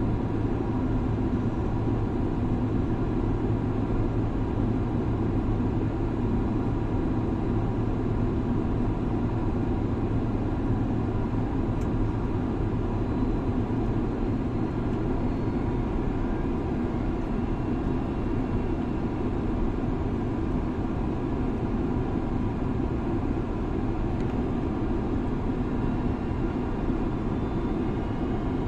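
Steady drone of a jet airliner in flight, heard from inside the cabin, with a few faint steady tones over the rumble.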